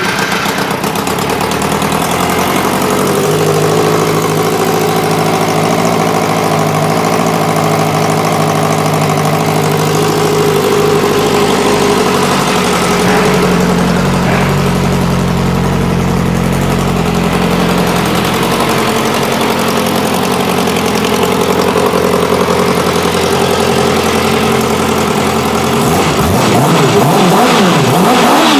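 2007 Kawasaki ZX-6R motorcycle's inline-four engine idling steadily, then blipped a few times near the end, its pitch rising and falling.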